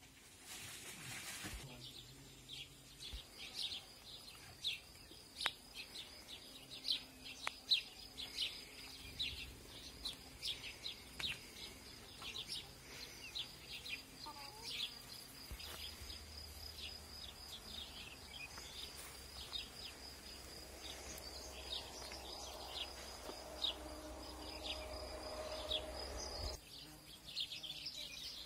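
Birds chirping, many short calls one after another, over a steady high tone. A low hum comes in about halfway through and stops shortly before the end.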